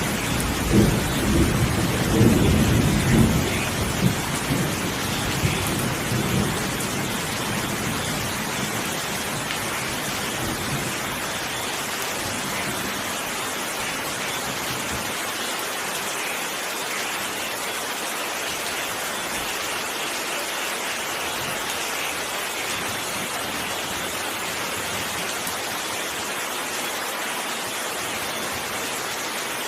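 Thunder rumbling in the first few seconds and dying away, over steady heavy rain that carries on alone for the rest of the time.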